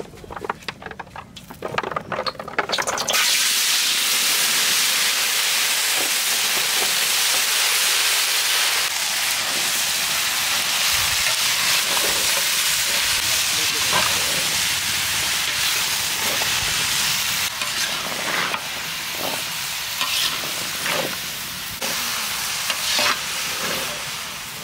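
Peeled water caltrops (singhara) tipped from a bowl into hot oil in a steel karahi: a short clatter, then about three seconds in a loud frying sizzle starts and runs on. A metal spatula scrapes the pan now and then as they are stirred, and the sizzle slowly eases toward the end.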